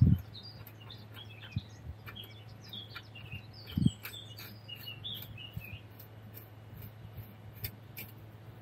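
Birds chirping in the background, with a few faint clicks and one dull knock about four seconds in as a nut is fitted onto a sway bar link bolt.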